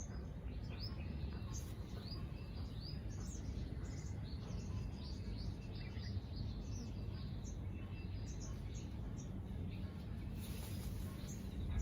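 Small birds chirping, many short high quick notes in a busy run, over a steady low background rumble.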